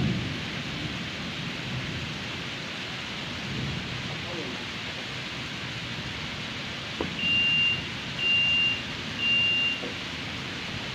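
Steady hiss of rain falling on the pond. Near the end come three short, high electronic beeps about a second apart, louder than the rain.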